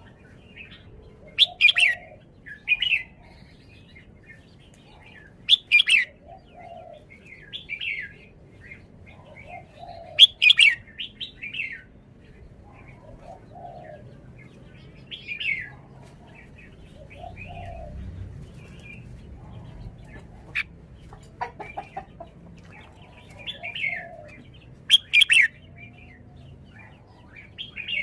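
Red-whiskered bulbul singing short, bright chirping song phrases every few seconds, with a lower note repeating beneath them.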